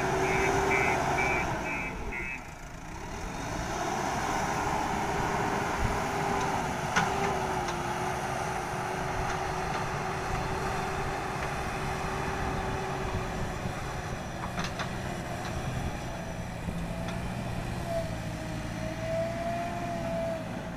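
JCB 3DX backhoe loader's diesel engine working, its pitch dropping about two seconds in and then rising and wavering as it takes load. A rapid reversing alarm beeps for the first second or so, and there are a few sharp metallic clanks later on.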